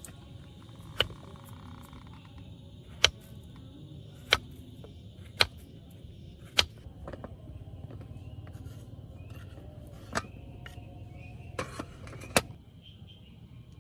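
Steady hiss of rain, with about nine sharp, irregular ticks and taps scattered through it; the loudest comes about three seconds in.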